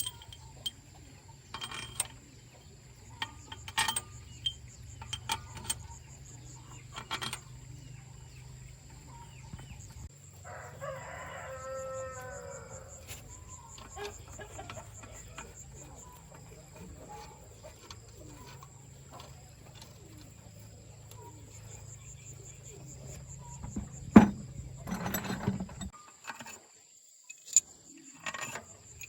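A rooster crows once, about eleven seconds in, over scattered sharp clicks and knocks and a low steady hum that stops near the end. A single sharp knock a few seconds before the end is the loudest sound.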